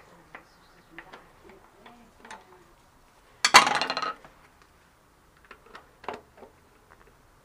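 Small metal clicks and clinks of pliers working at a circlip on a spin bike's bearing assembly, with one loud metallic clatter about three and a half seconds in.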